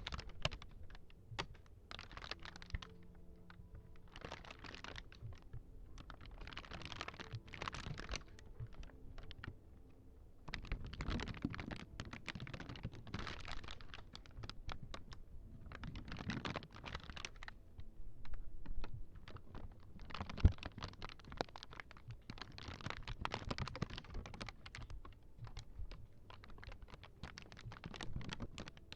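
Quick clicking, tapping and crackling of small ASMR props handled close to the microphone, coming in bursts of a second or two, with one sharp click about two-thirds of the way in.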